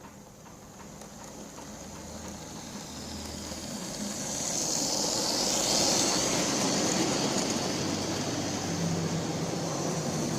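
Model Class 40 diesel locomotive running on track, its small electric motor whirring and wheels rattling on the rails. It grows louder over the first five seconds, then holds steady.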